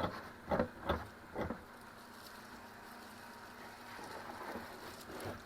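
Four knocks and rubbing sounds in the first second and a half, from handling the hollow plastic shell of a blow-mold Santa, over a faint steady hum that fades out partway through.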